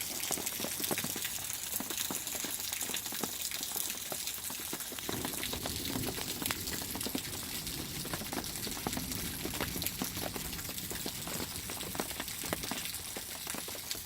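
Steady rain falling on an RV awning, a constant hiss dotted with many small drop ticks.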